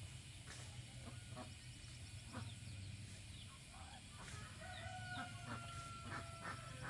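Chickens clucking in short calls, with a rooster crowing in one long, level call through the second half.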